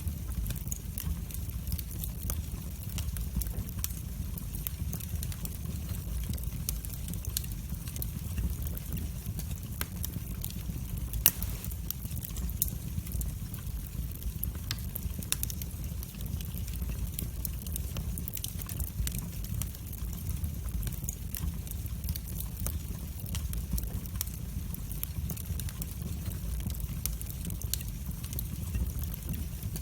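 Wood fire burning in a fireplace: a steady low rumble with many small irregular crackles and pops, one pop a little louder about eleven seconds in.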